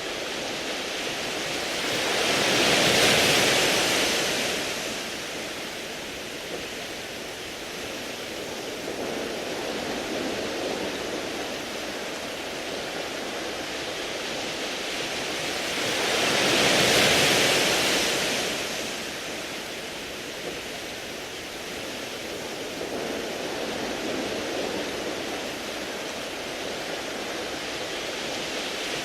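Sea waves breaking on a beach of smooth round pebbles and washing over the stones. Two larger waves swell up, one about three seconds in and one a little past halfway, with smaller surges between them.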